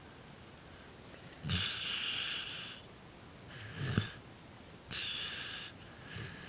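Australian Shepherd dog snoring in its sleep: four hissing breaths, about one every second and a half. The first two start with a short low snort.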